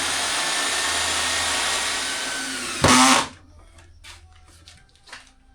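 Electric table saw running and cutting wood, with a loud short burst about three seconds in as the run ends, followed by a few light knocks.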